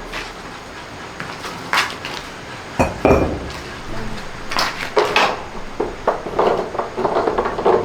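Metal tools and parts clinking and knocking as they are handled during work on a front-loading washing machine. There are separate knocks a couple of seconds in and again around the middle, then a busier rattle of small clatters near the end.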